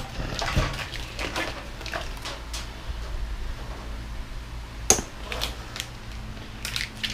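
Scattered light clicks, taps and rattles of hand work on a washer/dryer's parts as it is taken apart, with one sharper click about five seconds in. A steady low hum runs underneath.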